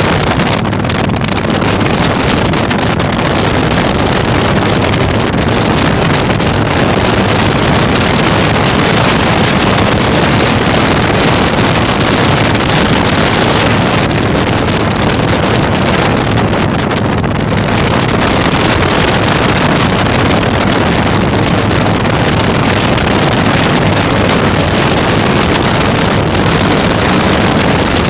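Heavy wind noise on the microphone over the steady drone of a Yamaha Virago 1100's V-twin engine at riding speed, loud and unbroken throughout.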